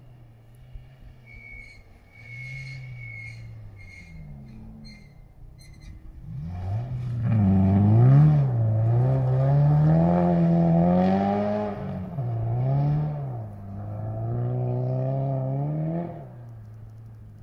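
Rally car engine revving hard on a snowy stage. It is faint at first, then loud from about six seconds in, its pitch swinging up and down again and again with the throttle, and it fades near the end.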